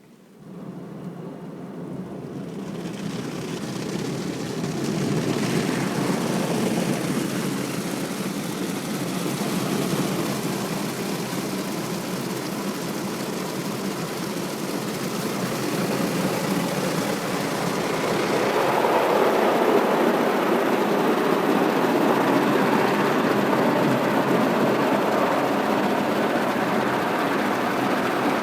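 Automatic car wash running: a steady rushing noise of water spray and machinery that builds up over the first few seconds and grows louder again about two thirds of the way through.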